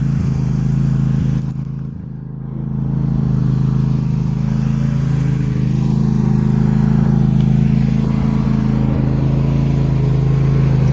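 An engine running steadily at a constant pitch, easing briefly about two seconds in.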